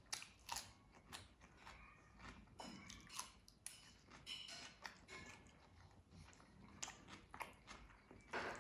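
Close-up eating sounds of a crisp cucumber slice being bitten and chewed: a series of irregular crunches and wet mouth clicks, with a louder burst of crunching near the end.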